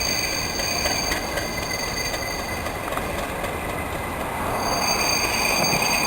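Network Rail test train rolling past on the rails, with a steady high-pitched wheel squeal over the running noise and a few faint clicks about a second in. The sound grows louder near the end.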